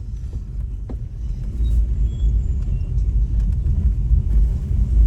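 Steady low rumble of a vehicle on the move, engine and road noise, which grows louder about a second and a half in.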